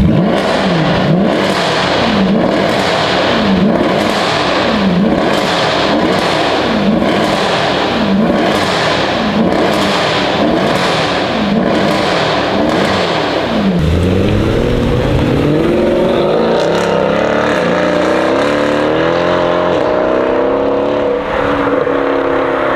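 Mercedes C63 AMG Black Series' naturally aspirated V8 through a custom X-pipe exhaust, revved about a dozen times in a row, with the pitch dropping and climbing again roughly every second. About two-thirds of the way through, the engine note climbs slowly and steadily under a long pull to higher revs.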